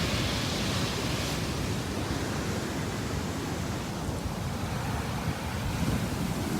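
Sea surf washing onto the beach from a churning sea, a steady rushing noise.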